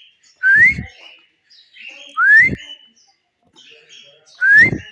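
Parrot whistling a short rising note three times, about every two seconds, with a low thump under each whistle.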